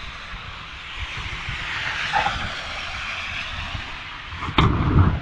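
Steady rushing noise, then a sudden loud thump near the end that stays loud for about half a second.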